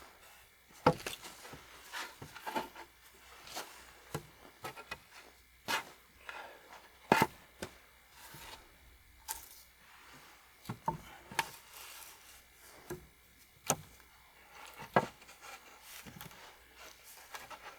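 Irregular wooden knocks and scrapes, a sharp one every second or so, as of wood being handled or worked by hand.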